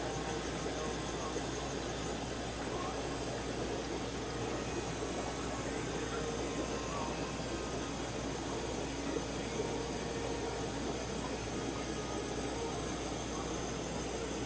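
Steady ambient hum and bubbling of aquarium equipment (filters and air pumps), with running water.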